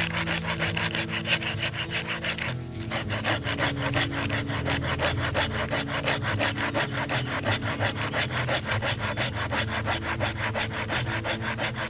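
Hand saw cutting through wood in quick, even strokes, with a brief pause about two and a half seconds in.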